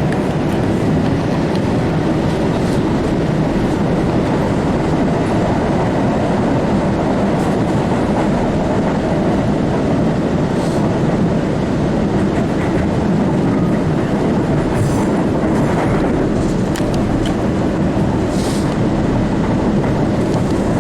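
MBTA Blue Line Siemens 700 Series subway car running at speed, heard from inside the car: a steady rumble of wheels on rail with clickety-clack from the track.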